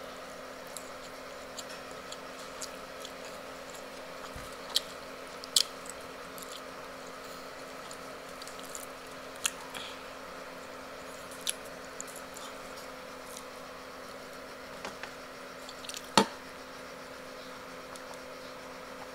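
Close-up eating sounds as roast chicken is eaten with the fingers: soft chewing and mouth noises, broken by about five sharp clicks or smacks, the loudest about 16 seconds in. A steady low hum runs underneath.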